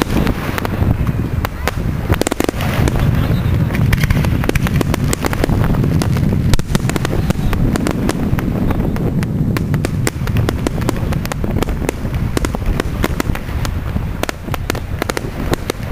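Fireworks display: a rapid, dense run of crackles and sharp bangs over a steady low rumble.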